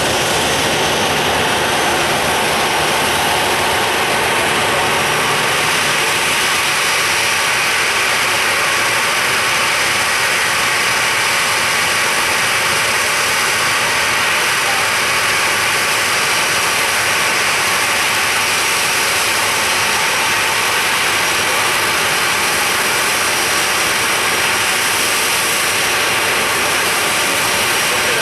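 Airliner jet engines running steadily: an even rushing noise with a faint high whine.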